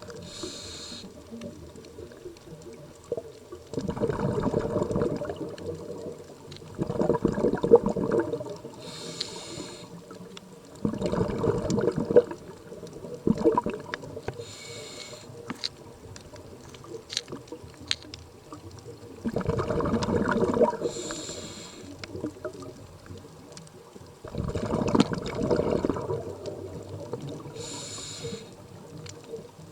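Scuba diver breathing underwater through a regulator: five bursts of exhaled bubbles rumbling, each about a second and a half long, with fainter hissing inhalations between them.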